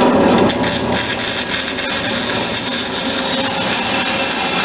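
Power saw cutting diagonally through a square of marine plywood, a steady cutting noise.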